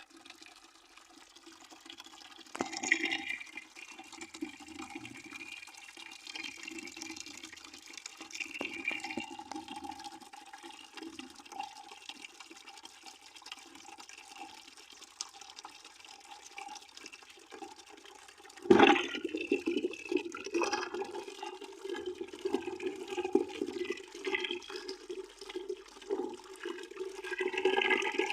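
Water pouring into a bucket, a steady splashing rush with brief louder surges, the biggest about nineteen seconds in, after which the pour stays louder.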